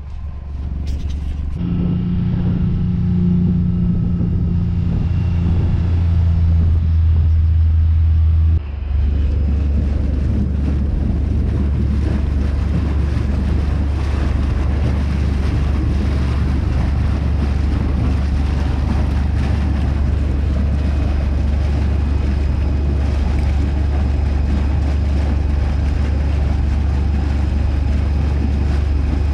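A vehicle engine running with a steady hum. About nine seconds in, the hum gives way to a louder, rough, continuous rumble that runs on steadily.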